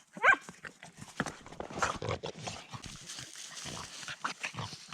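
A short call from an animal, rising in pitch, about a third of a second in, the loudest sound here, followed by irregular rustling and scuffling.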